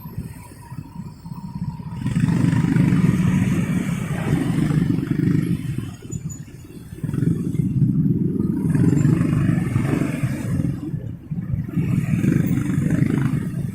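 Motorcycle engine and road noise from the rider's seat in traffic. It grows louder about two seconds in, then rises and eases off in three stretches with short lulls between.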